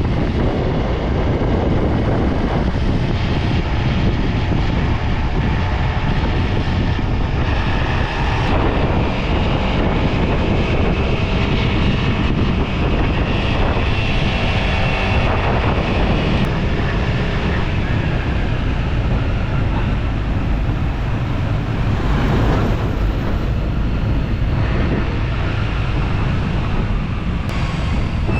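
Motorcycle riding along, its engine running under heavy wind rushing over the microphone.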